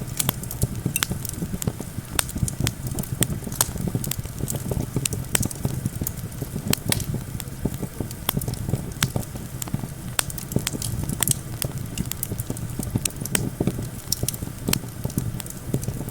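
Campfire crackling with many sharp irregular pops and snaps, over a steady low rumble of wind.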